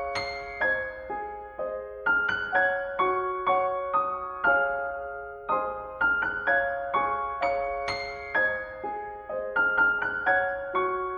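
Soft, slow piano music: single struck notes and gentle chords that each fade away, in a phrase that repeats about every eight seconds.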